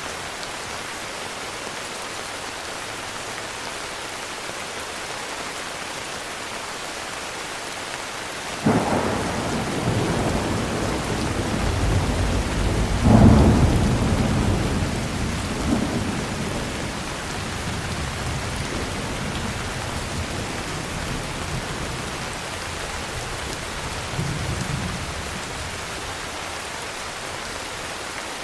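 Heavy rain falling steadily, with a thunderclap about a third of the way in that starts suddenly and rumbles for several seconds, loudest a few seconds after it begins, then dies back into the rain. A fainter rumble of thunder comes near the end.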